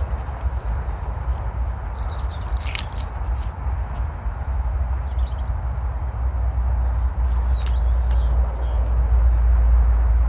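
Outdoor ambience dominated by a steady low rumble of wind on the microphone, with small birds chirping on and off. Two sharp snaps or rustles stand out, one about a quarter of the way in and one about three quarters of the way in.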